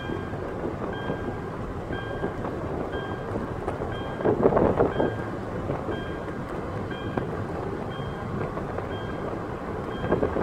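Stream water rushing steadily, swelling briefly about halfway through. A short high note repeats about once a second over it.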